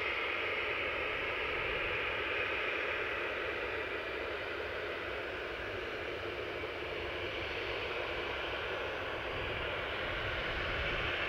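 Aircraft engines heard as a steady, even rushing noise with no clear tone, holding at a nearly constant level.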